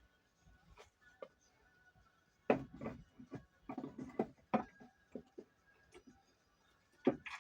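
Scattered knocks and clinks of tools and metal engine parts being handled during engine assembly: a cluster of them about two and a half seconds in, and another near the end.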